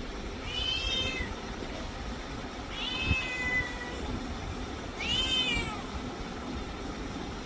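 Domestic cat meowing three times, high-pitched calls a couple of seconds apart, each just under a second long, over a steady background hum.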